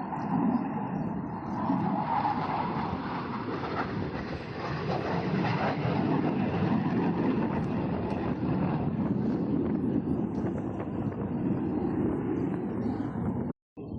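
Aircraft engine noise at an airshow: a steady, loud rush that grows brighter about two seconds in and eases slightly later on, cutting out briefly near the end.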